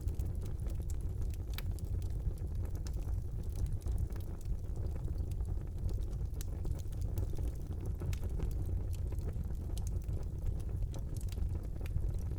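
Fire burning in a brick fireplace: a steady low rumble of flames with frequent sharp crackles and pops.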